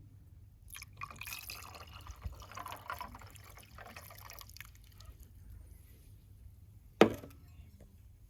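Liquid pouring and dripping for a few seconds, then a single sharp knock about seven seconds in.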